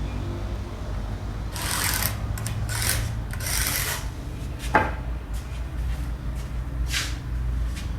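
Wood lathe motor running with a steady low hum while a tool rasps against the spinning wood in several short scraping passes, with a sharp knock about halfway through and another brief scrape near the end.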